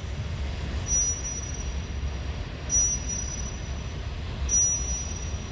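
Strong wind buffeting the microphone with a steady low rumble. A thin, high, steady whistle comes in sharply three times, about every two seconds.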